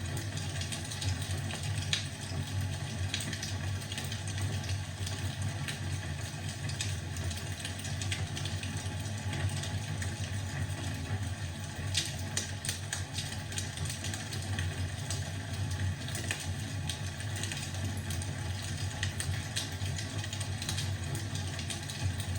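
Wood fire crackling in a fireplace: irregular pops and snaps over a steady low rumble, with a flurry of pops about halfway through.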